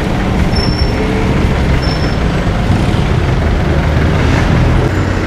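Steady street traffic noise with vehicle engines running, and no speech.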